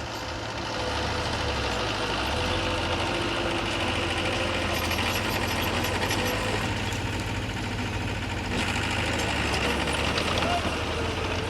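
Diesel engine of heavy earthmoving machinery running steadily, a little louder about a second in.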